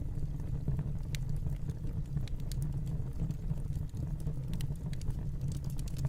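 Wood fire crackling in a fireplace: a steady low rumble with scattered, irregular sharp pops and snaps.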